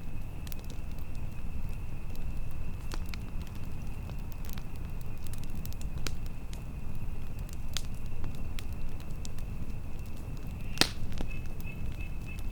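Campfire crackling, with sharp pops scattered irregularly and the loudest pop shortly before the end, over a steady low rumble of wind. A steady high-pitched tone runs underneath and becomes pulsing near the end.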